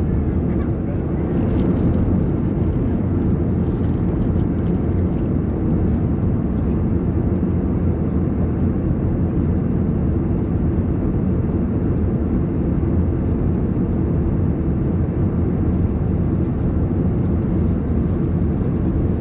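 Steady cabin noise of an Airbus A321 in cruise: a constant low roar of engines and airflow with no changes.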